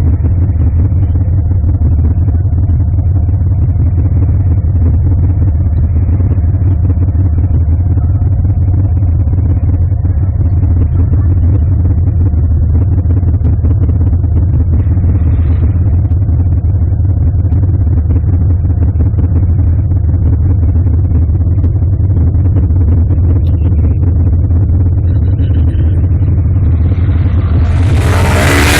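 Car engine and road noise as a steady low drone while driving, with a loud burst of noise near the end.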